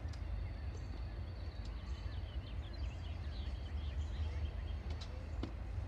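Steady low rumble of a train passing at a distance, with birds chirping over it.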